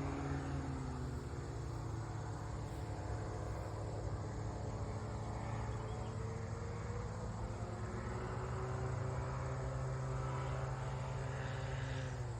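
Small aircraft's engine and propeller droning overhead, its pitch slowly rising and falling, then dropping near the end.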